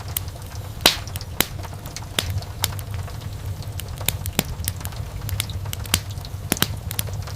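Wood fire crackling: irregular sharp snaps and pops, the loudest about a second in, over a steady low rumble of the burning fire.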